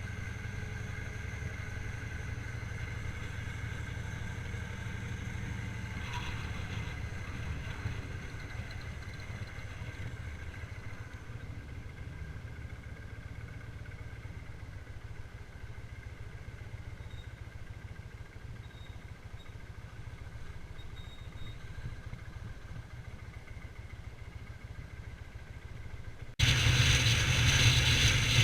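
Victory V-twin motorcycle cruising, a steady low engine and road rumble. Near the end the sound jumps abruptly to much louder engine and wind noise.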